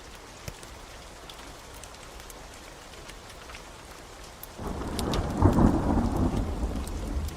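Steady rain with scattered sharp crackles from a wood fire. About four and a half seconds in, a loud rumble of thunder rolls in and carries on to the end.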